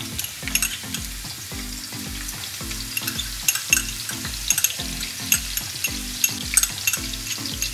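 Ginger-garlic paste sizzling and crackling in hot desi ghee on a large iron tawa while it is sautéed with a spatula, with sharp pops scattered all through.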